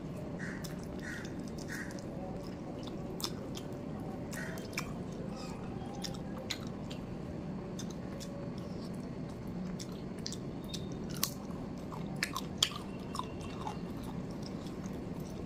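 Close-up chewing of a mouthful of rice and chicken curry, with many small wet mouth clicks and a few sharper clicks in the last third. Soft squishing of fingers mixing rice on a steel plate.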